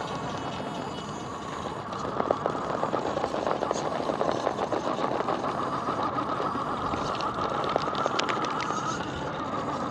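1/10-scale RC rock crawler's electric motor and geared drivetrain whining steadily as it crawls over rock, growing louder about two seconds in and easing near the end, with scattered clicks and scrapes of tyres and chassis on stone.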